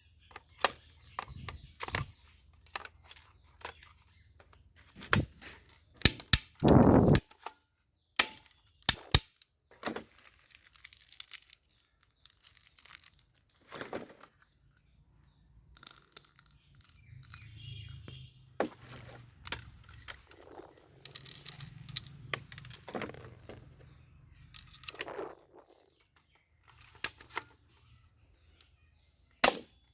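Plastic toy guns being handled: irregular clicks, knocks and rattles with crinkling rustles, and a louder clatter of about a second near a quarter of the way in.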